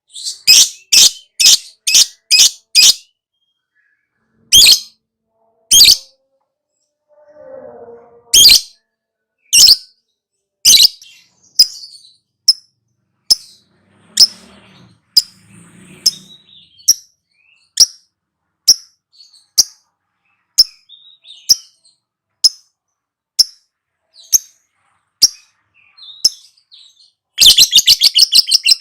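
Lovebird calling in sharp, high chirps, a quick run of them at first and then about one a second. Near the end it breaks into a fast, rattling trill: the long chatter that keepers call 'ngekek'.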